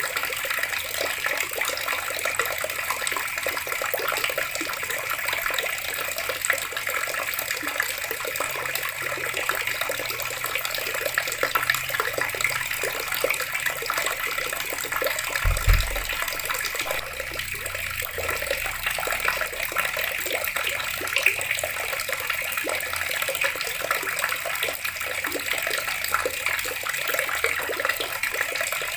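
Water running steadily from a tap, a continuous splashing stream. About halfway through there is a single low thud.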